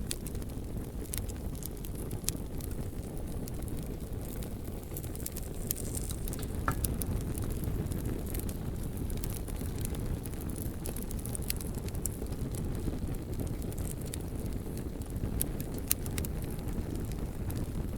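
Bonfire burning with a steady low rumble of flame, and scattered sharp crackles and pops from the burning logs.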